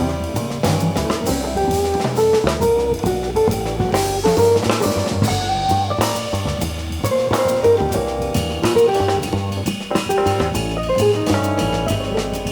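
Live jazz band playing: a melody of quick, changing notes, likely guitar, over bass and a drum kit with cymbals.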